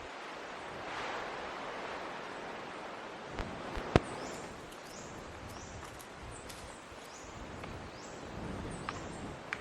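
Tropical forest ambience: a steady hiss with a short high call repeating several times in the second half, and one sharp click about four seconds in.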